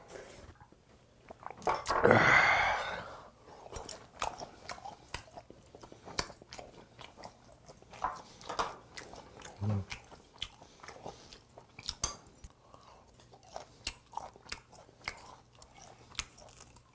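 A man chewing and biting food close to the microphone, with many small wet clicks and smacks. A loud breathy exhale about two seconds in follows a shot of soju.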